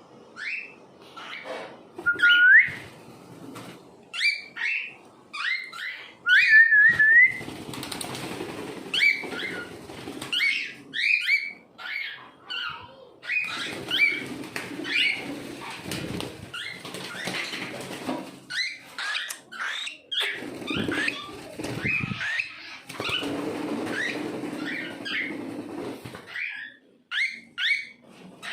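Cockatiel chirping in quick, short rising calls again and again, with two longer, drawn-out whistles about two and seven seconds in. Stretches of lower, noisier sound come and go under the calls.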